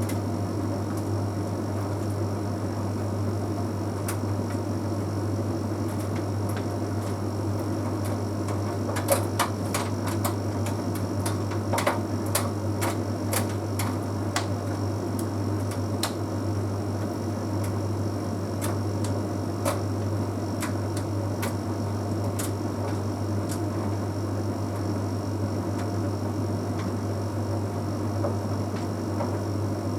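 Bosch Series 6 heat pump tumble dryer running mid-cycle: a steady low hum with irregular light clicks and ticks from the tumbling load, clustered about nine to fourteen seconds in.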